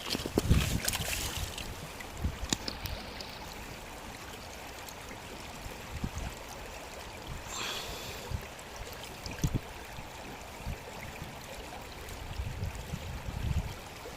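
Steady rush of flowing stream water, with a few short knocks scattered through it.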